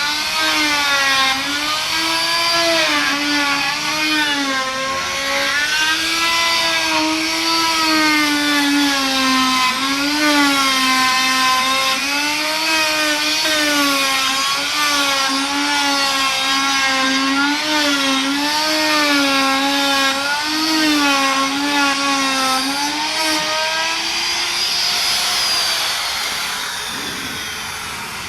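Electric power tool motor running while working wood, its hum wavering up and down as the load changes. It fades near the end.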